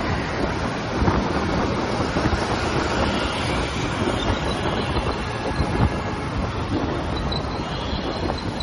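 TVS Apache RTR 180 motorcycle on the move, its single-cylinder engine running under steady wind and road noise. There are two brief thumps, about a second in and near six seconds.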